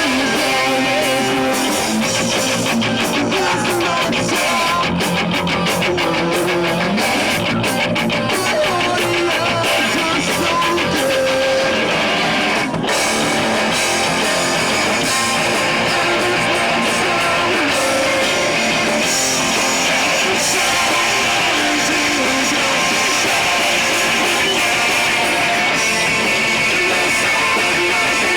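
A rock band playing live with loud, distorted electric guitars.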